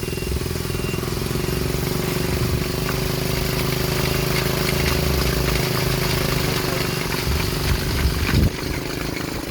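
Homemade helicopter's small engine running steadily, with a brief louder noise about eight seconds in.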